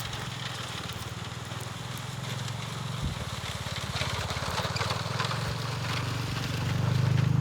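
An engine running steadily with a low, rapidly pulsing hum that grows louder near the end.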